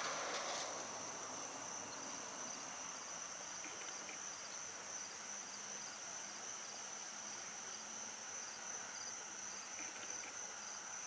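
Steady high-pitched trill of insects singing, with faint regular ticking about twice a second.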